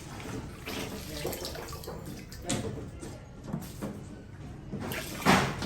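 Fermented fruit juice being poured and splashed into a container of water, a running, irregular liquid sound with a louder burst near the end.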